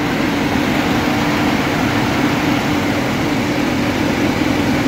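Car engine idling steadily with a constant hum, heard up close under the open bonnet.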